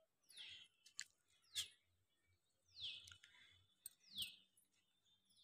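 A small bird calling faintly: a series of five short chirps, each falling sharply in pitch, about one every second and a half, with a couple of faint clicks between them.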